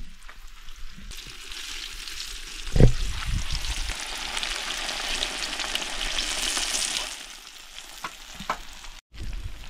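Banana slices sizzling in hot oil in a frying pan while tongs turn them. The sizzling grows louder after about a second and eases off near the end, with a sharp knock about three seconds in.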